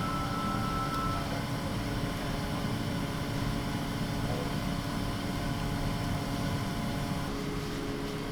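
Steady mechanical hum over a low rumble, with several constant tones and no sudden events.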